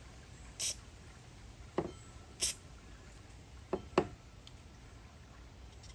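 Two short hisses of aerosol carburetor cleaner sprayed into the passages of a chainsaw carburetor, with a few light clicks of the small metal part being handled.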